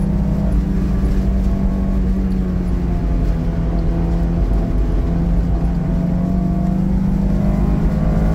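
Honda S2000's four-cylinder engine, heard from inside the cabin, pulling at steady high-middle revs on track. The note sags briefly about three to four seconds in, then slowly climbs in pitch as the car accelerates near the end.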